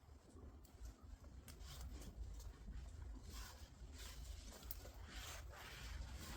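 Faint soft rubbing of a microfiber towel wiped across a car's painted panel, drying it after a rinseless wash, with a low rumble underneath.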